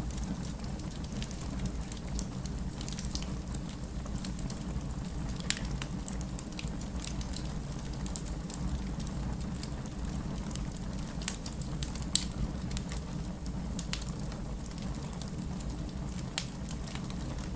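Wood fire burning in a fireplace, crackling steadily under a low rumble of flame, with scattered sharp snaps and pops from the burning logs, the loudest about five and a half seconds and about twelve seconds in.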